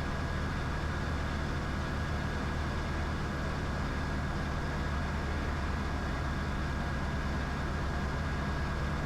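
Diamond DA20's piston engine and propeller droning steadily in cruise, heard from inside the cockpit, with a faint steady high whine over it.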